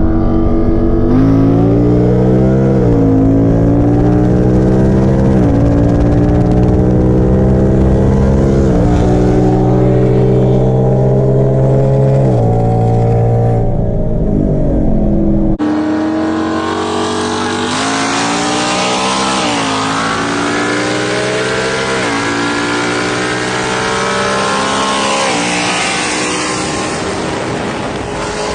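Car engine at full throttle pulling hard through the gears, its pitch climbing then dropping back at each upshift, about four shifts. About halfway through there is a cut, and a second car run follows with the same rise-and-drop pattern through three more shifts.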